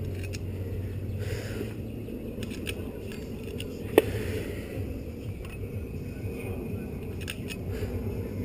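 Small metal parts being handled, making a few faint ticks and one sharp click about four seconds in, over a steady low background rumble.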